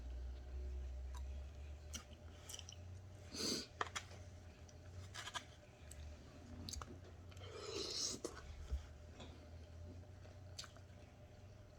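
A person chewing food quietly with the mouth closed, with scattered small clicks and soft mouth smacks, two of them louder, near the middle and about two-thirds of the way in.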